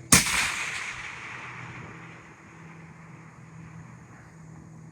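A single long-range rifle shot: a sharp crack just after the start, followed by a long rolling echo that fades away over about two seconds.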